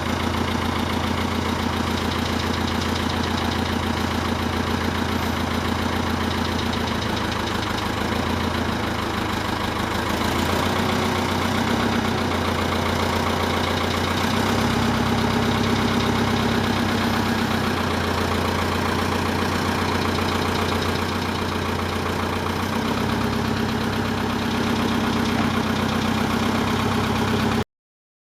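Ford County 754 tracked logging tractor's diesel engine running steadily, its note shifting slightly a few times. The sound cuts off abruptly near the end.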